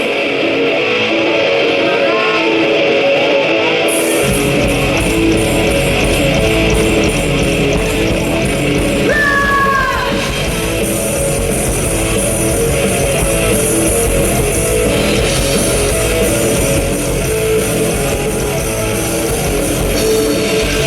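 Live rock band starting a song: an electric guitar plays alone at first, then the full band with bass and drums comes in about four seconds in and keeps playing the instrumental intro.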